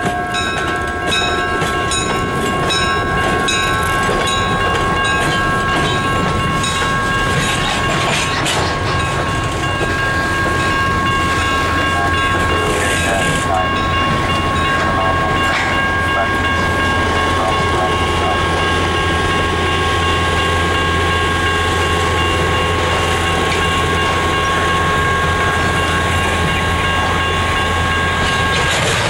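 EMD GP7u diesel switcher and a cut of freight cars rolling slowly through a yard crossing, wheels clacking over the rails. Steady high ringing tones run throughout. A rapid ringing of about two strokes a second fades out after the first several seconds, and a low engine rumble grows stronger in the second half.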